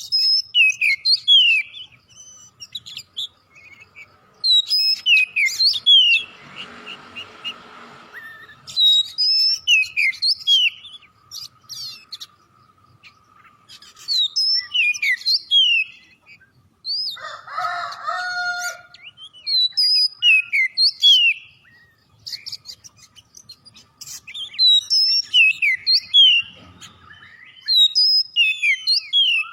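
Oriental magpie-robin singing: bouts of quick, sliding, whistled notes a few seconds long, separated by short pauses. A harsher, noisier sound comes about 6 seconds in and again about 18 seconds in.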